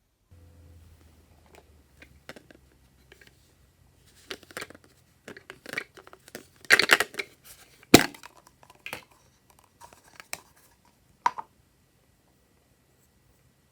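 Close-up handling noises, most likely plastic slime containers and packaging: intermittent crinkling and tearing rustles with sharp plastic clicks. The loudest parts are a dense rustle about seven seconds in and a sharp click about a second later.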